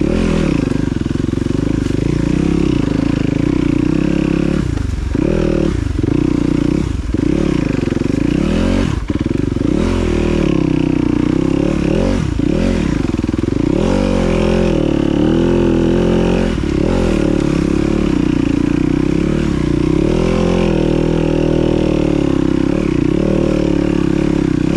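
Dirt bike engine revving up and down again and again as the throttle is opened and closed, with short drops in pitch every second or two through the first half.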